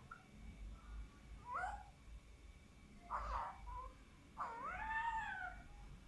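Alexandrine parakeet vocalising: three separate calls, a short one about a second and a half in, another about three seconds in, and a longer one of about a second that rises and then falls in pitch.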